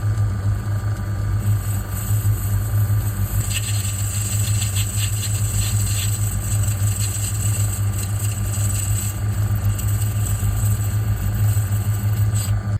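Metal lathe running with a steady hum while a parting blade cuts a groove into the piston valve, a raspy cutting noise over the motor for several seconds in the middle. The lathe cuts off right at the end.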